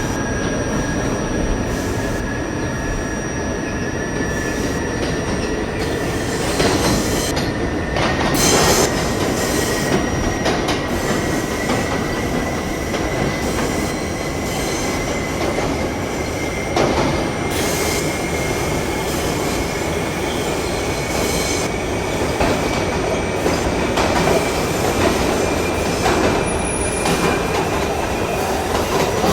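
R68A subway train running between stations: a steady rumble and rail noise with a thin whine that climbs slowly in pitch, and a few sharp knocks from the wheels on the track.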